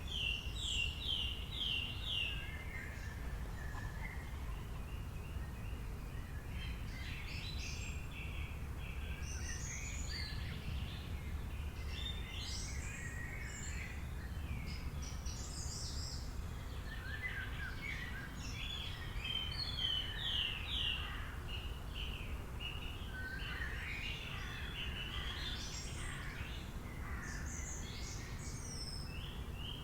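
Several wild birds chirping and singing throughout, with quick runs of repeated notes near the start and near the end, over a steady low background rumble.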